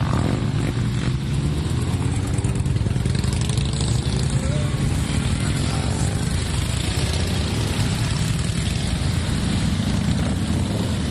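Engines of a column of motorcycles running steadily as they ride past, with engine pitches rising and falling a few seconds in.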